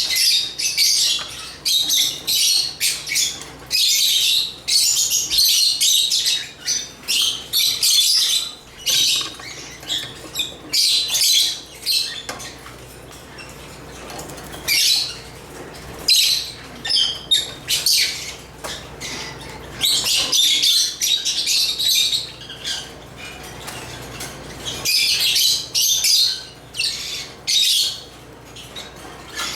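African lovebirds chirping and squawking in rapid high-pitched bursts, in busy spells with short quieter gaps between them.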